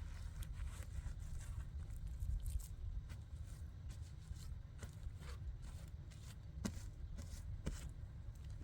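Scattered small clicks and scrapes over a steady low rumble, with two sharper clicks about two-thirds of the way through.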